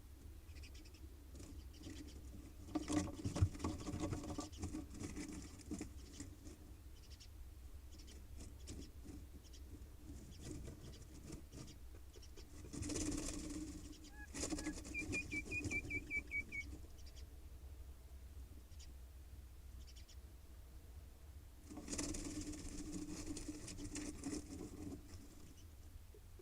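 Common mynas scrabbling and rustling through trash and nesting material inside a nest box, in three bouts of scratchy rustling. A short, high chirping trill sounds once, in the middle.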